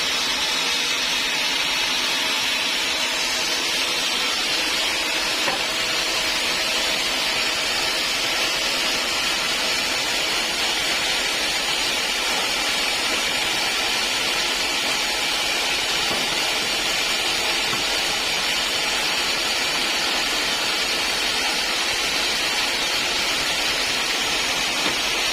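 Sawmill saw running steadily, a continuous hissing machine noise with no breaks.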